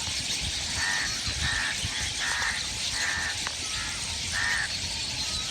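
A crow cawing five times in a loose series of harsh calls, with another bird's short wavering whistle in between.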